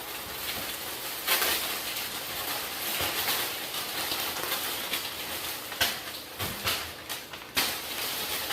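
Grocery packaging and plastic bags rustling and crinkling as groceries are put away, with a few short knocks of items being set down on pantry shelves.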